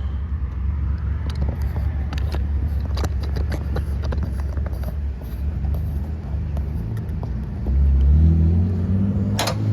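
250cc XPro motorcycle engine running at idle with scattered clicks and rattles, its note getting louder and rising in pitch near the end.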